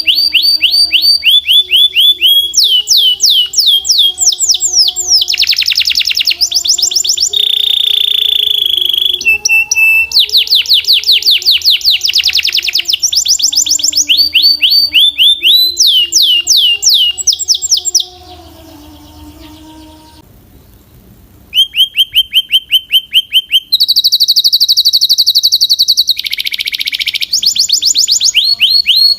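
Belgian canary singing loudly in rapid trills of quickly repeated, falling high notes, phrase after phrase, with a pause of about three seconds a little past the middle.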